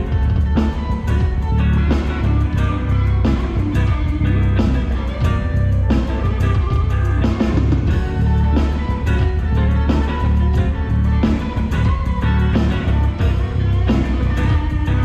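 Live rock band playing an instrumental passage: electric guitar, bass guitar and drum kit, with a steady beat and drum hits throughout.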